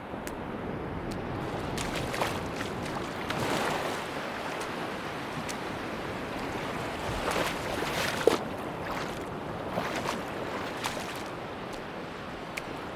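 Sea waves washing onto a beach, a steady rushing that swells twice, with scattered small clicks and one sharper click about eight seconds in.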